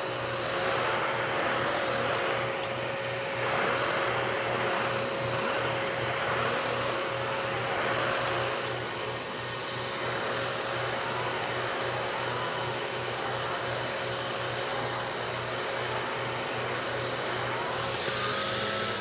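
Vacuum cleaner running steadily with a constant motor whine, its brushing noise swelling and easing every second or two as it is pushed and pulled over carpet.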